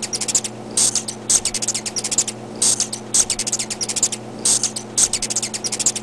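Hummingbird chittering: bursts of rapid, very high-pitched ticking chips in irregular groups, over a steady low hum.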